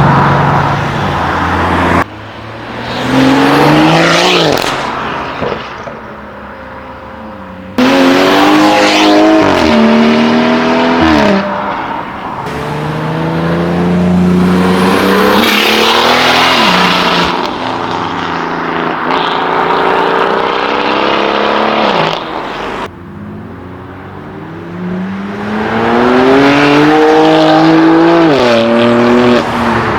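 Modified tuner cars accelerating hard away one after another, each engine note climbing in pitch and dropping sharply at the upshifts, with a loud exhaust. The clips change abruptly several times, each with a different car pulling away.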